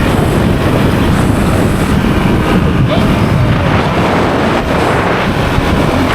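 Honda CRF450RL's single-cylinder four-stroke engine running steadily at cruising speed, mixed with wind rushing over the microphone.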